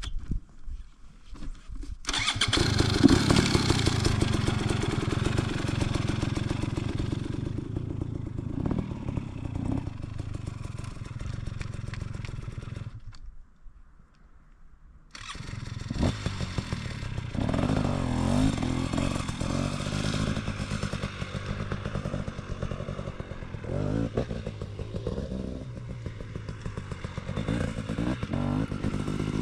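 Off-road motorcycle engine running hard and revving. The sound starts suddenly a couple of seconds in, drops away briefly about halfway through, then comes back and carries on with the pitch rising and falling.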